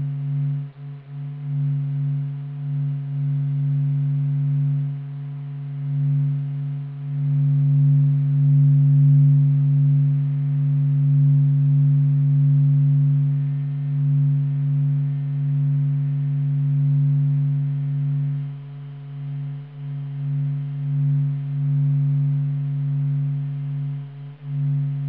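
Space sonification played as the 'sound of the Sun': a steady low droning hum with fainter higher overtones above it. It swells slowly in the middle and eases off somewhat near the end.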